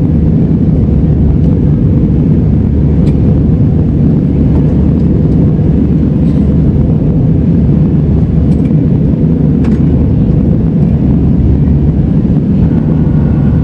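Airliner cabin noise during the climb: a steady, loud low roar of the jet engines and rushing air.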